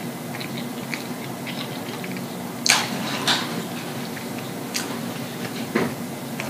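A person chewing food with the mouth open: wet smacking and small mouth clicks, with several louder smacks from a little under three seconds in. A steady low hum runs underneath.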